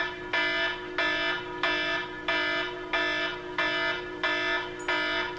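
Electronic alarm beeping in a steady rhythm, about one and a half buzzy beeps a second, each roughly half a second long, over a steady low hum.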